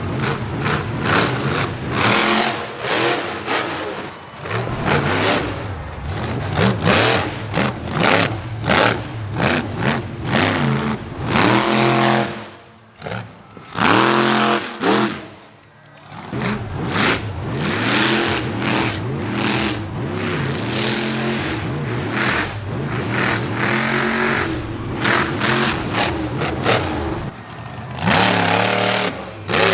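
Monster truck engine revving hard through a freestyle run, with rapid throttle stabs and bursts of rising and falling pitch, and two brief drops in sound about thirteen and sixteen seconds in.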